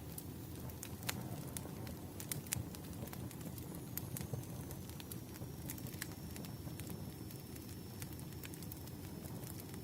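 Firewood burning, a steady low rumble of flames with frequent sharp pops and crackles. A faint high steady tone comes in about four seconds in.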